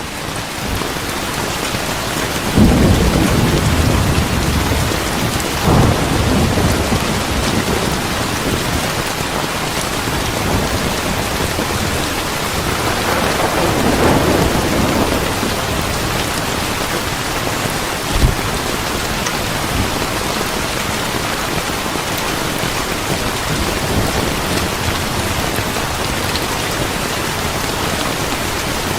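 Steady heavy rain with rolling thunder: low rumbles swell about two and a half seconds in, again around six seconds, and longest around thirteen to fifteen seconds, with one short sharp thump a little after eighteen seconds.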